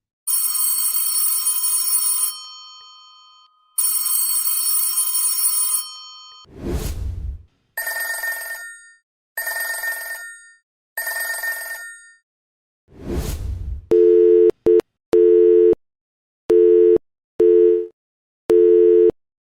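A run of telephone ringer sounds. First come two long rings of a bell ringer, then three shorter bell rings about a second and a half apart. After that an electronic two-tone warbling ringer sounds in short pulses grouped in pairs, a double-ring pattern. Short whooshes separate the groups.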